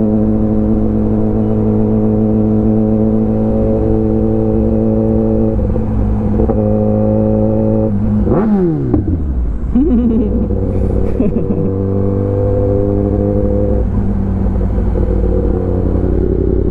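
Kawasaki ZX10R inline-four engine through an Arrow full exhaust system, running at a steady speed, heard from the rider's helmet. About eight and a half seconds in the revs fall sharply, then rise and fall briefly a few times before settling to a steady note again.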